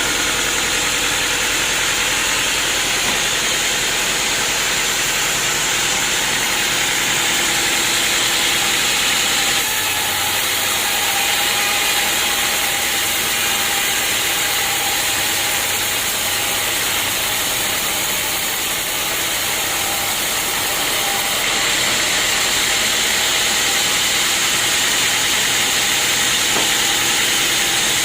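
Sawmill machinery running steadily with a loud hissing saw noise. The sound shifts abruptly about ten seconds in and again about twenty-one seconds in.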